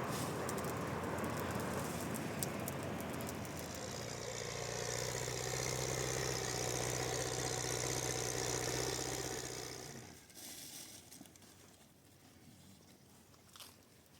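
A vehicle engine running steadily, then dying away about ten seconds in.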